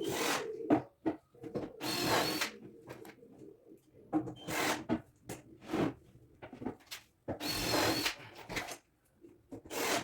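Cordless drill-driver driving screws into MDF cabinet panels in about six short runs of half a second or so, some with a high motor whine, between lighter knocks of the panels being handled.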